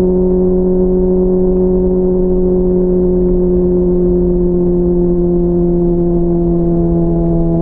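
Honda CBR600RR's inline-four engine running under way at a steady pitch that sags slowly, as the bike holds its speed in one gear.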